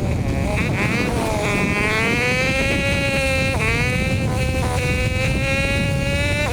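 Hawk 250 dual-sport motorcycle engine running under way, its pitch climbing slowly with the throttle, dropping sharply about three and a half seconds in, then holding steady, over a constant rumble of wind and tyres on a gravel road.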